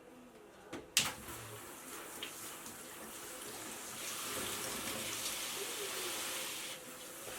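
Kitchen tap running into a sink: a sharp knock about a second in, then a steady stream of water that grows louder partway through.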